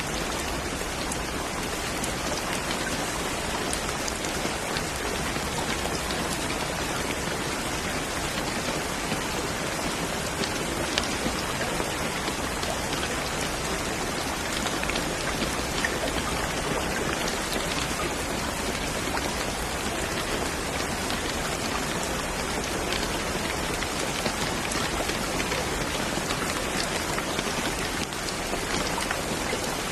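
Steady heavy rain falling on a surface, a dense even hiss with scattered individual drop taps.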